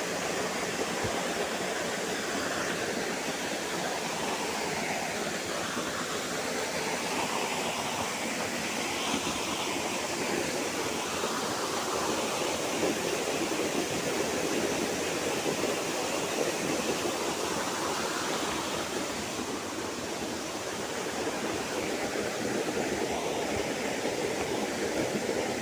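Flowing river water rushing steadily, with a slowly wavering character.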